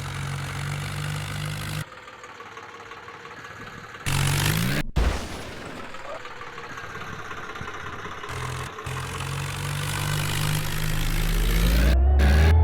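Tractor engine running steadily, interrupted by several abrupt cuts. Near the end it revs up and back down, the loudest part.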